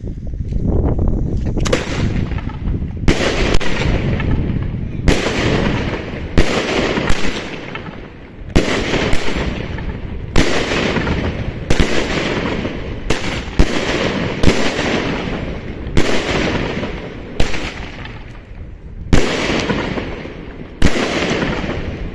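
A 13-shot fireworks battery (Argento Orchid, brocade-tail rise to brocade crown with strobe stars) firing shot after shot, roughly every one to two seconds after the first second and a half: each a sharp bang followed by a fading hiss as the crown burns out. Heavy, full-sounding bursts.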